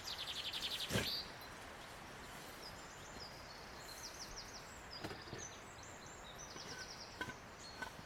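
Small birds chirping and trilling, over a steady outdoor hiss. A few sharp clicks or knocks cut in, the loudest about a second in.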